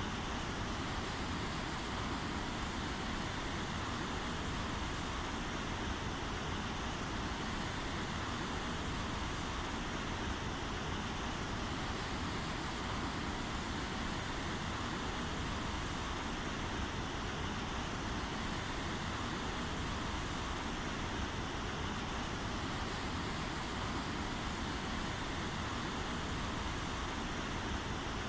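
Rain falling steadily, an even hiss with no single drops or gusts standing out.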